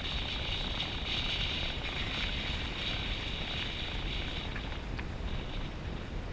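Steady wind noise buffeting a GoPro microphone over a continuous low rumble.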